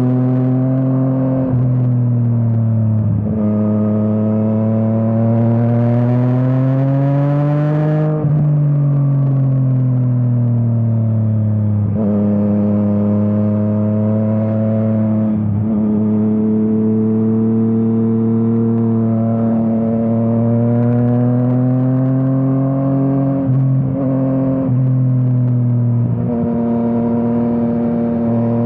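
Yamaha MT-09's three-cylinder engine through an Akrapovič exhaust, pulling through the gears with short dips at each shift. A long climb in pitch about a quarter of the way in cuts off sharply and falls away as the bike slows, then the engine pulls and shifts again several times.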